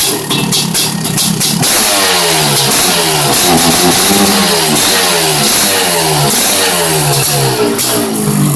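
Freshly rebuilt 1987 Honda CR500's two-stroke single-cylinder engine being revved in repeated throttle blips from about a second and a half in, the revs falling away after each one, about two a second.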